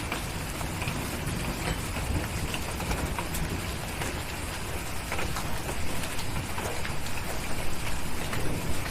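Steady rain with scattered sharp crackles and pops from a wood fire. A low rumble like distant thunder runs underneath and swells slightly in the last few seconds.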